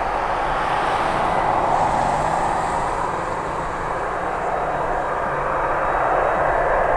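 Jet engines of a Boeing 767-300 airliner running steadily, with a faint high whine over the first half.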